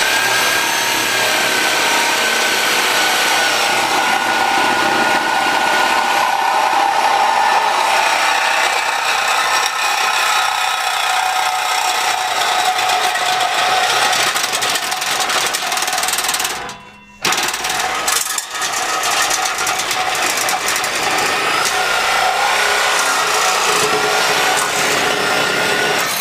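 Reciprocating saw cutting through the steel exhaust pipe of a Ford Super Duty, running loud and steady with a wavering whine. It stops for a moment about seventeen seconds in, then starts cutting again.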